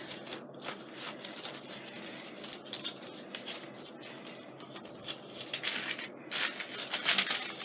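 Paper being handled on a craft table: rustling, scraping and small clicks, with a louder stretch of crinkling near the end, as of a sticker sheet being peeled or handled.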